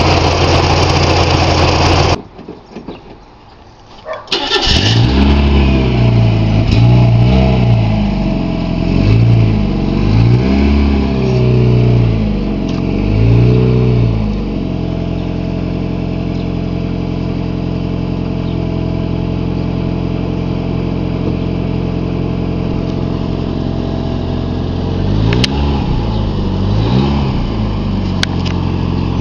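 1991 Mazda Miata's 16-valve four-cylinder engine starting about four seconds in. It is revved several times in quick rises and falls, then settles to a steady idle, with another couple of revs near the end. Before the start, a loud steady sound cuts off abruptly about two seconds in.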